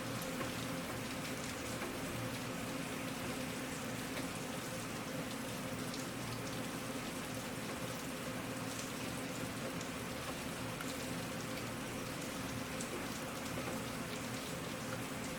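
Steady rain falling, with the patter of individual drops on a surface.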